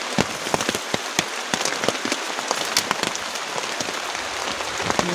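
Heavy rain, heard from inside a bamboo hut: a steady hiss with many sharp, irregular taps of drops striking close by.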